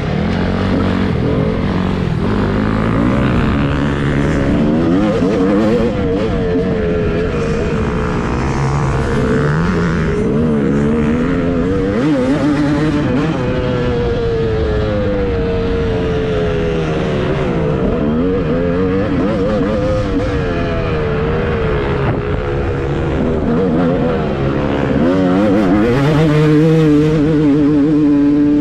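Several motocross dirt bike engines revving up and down, their pitches rising and falling and overlapping.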